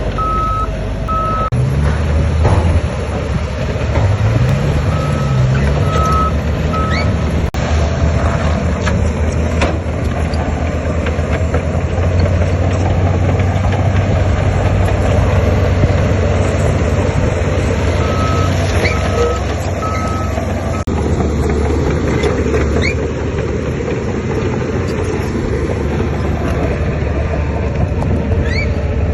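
Heavy diesel earthmoving machinery running steadily, its revs rising and falling briefly around five seconds in. A reversing alarm beeps in short spells: at the start, around six seconds in, and again near twenty seconds.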